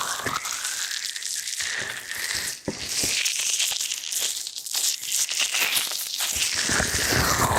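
Ear-massage ASMR: hands rubbing and kneading over the ears of a binaural microphone, a close crinkly rustling with slow swishes and small clicks.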